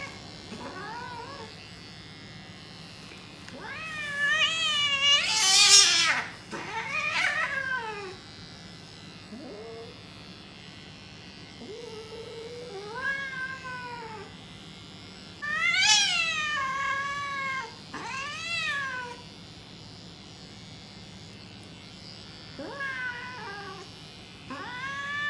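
Grey cat yowling and meowing again and again while being shaved: a string of long, wavering cries, the loudest about four to six seconds in. The cries are the protest of an angry cat at its grooming.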